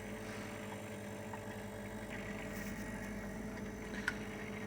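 Hermetic refrigeration compressors running steadily with a low, even hum: an SC21F fridge compressor converted to compress air, together with the refrigeration unit chilling its aftercooler.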